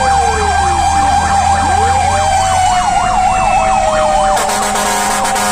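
Fire engine sirens on a responding fire truck: a fast yelp rising and falling about four to five times a second over a steady tone, with a second siren's slower wail gliding down and up. About four seconds in the yelp stops and a steady blaring tone carries on.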